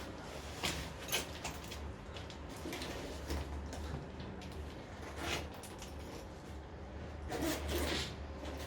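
Irregular rustling and scuffing over a steady low rumble.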